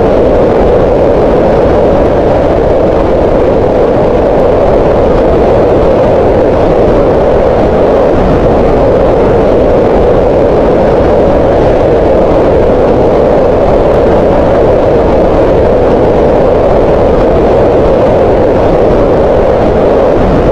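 Green noise: a loud, perfectly steady rushing noise, strongest in the middle of the range, with little high hiss and no changes.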